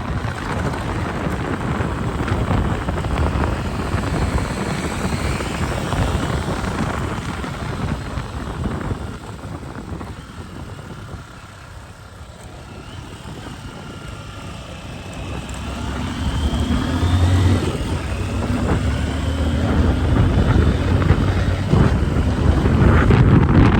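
Motorcycle engine running on the move. It drops in loudness about halfway, then its note climbs again toward the end as the bike accelerates.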